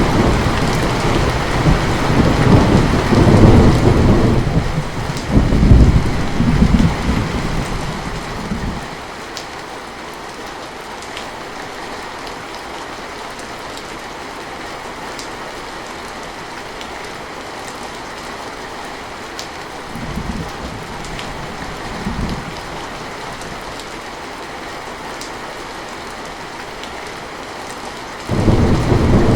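Steady heavy rain with rolling thunder: a long rumble that swells and fades over the first nine seconds, two brief low rumbles about two-thirds of the way through, and another loud rumble starting near the end.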